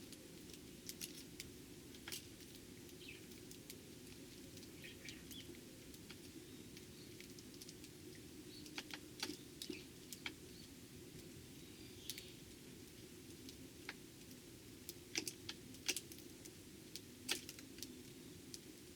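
Eurasian tree sparrows: irregular sharp taps and clicks, with a few faint chirps, over a low steady hum.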